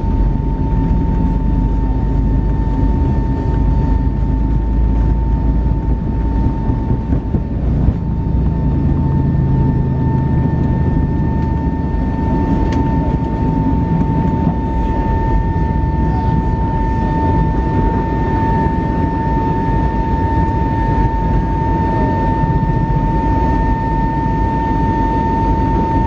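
Cabin noise of an Airbus A320neo airliner climbing after takeoff: a loud, steady low rumble of engines and airflow, with a steady high tone running through it.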